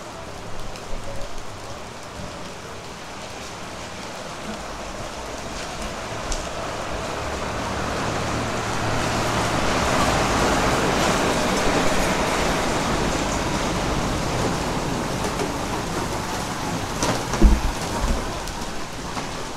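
Rain falling steadily, with a rushing swell that builds for several seconds, peaks near the middle and slowly fades. A few low knocks come near the end.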